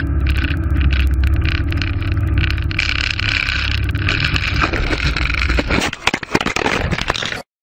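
Steady low vehicle drone of engine and road noise. In the last two seconds it breaks into a flurry of sharp knocks and crackles, then cuts off abruptly.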